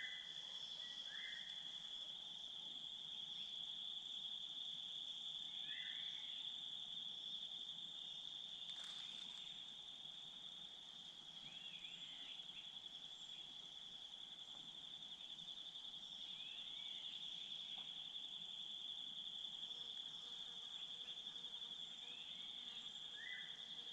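Insects trilling in one steady, unbroken drone, with a few short bird chirps now and then and a single click about nine seconds in.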